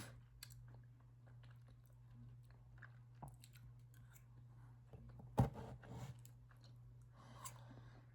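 A person chewing a brownie close to the microphone, with small wet mouth clicks. A single sharp click about five seconds in, and a breath near the end.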